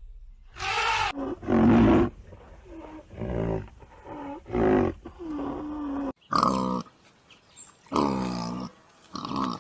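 A series of separate animal calls, each lasting about half a second to a second. About six seconds in the recording changes to a different animal's calls.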